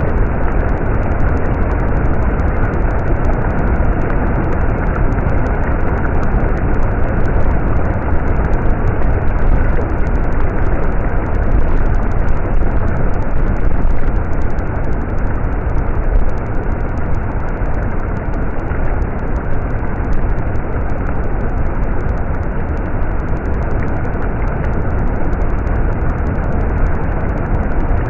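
Stream water flowing, a loud, steady rush that does not let up.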